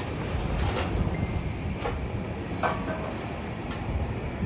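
Steady low engine rumble with a few short clicks.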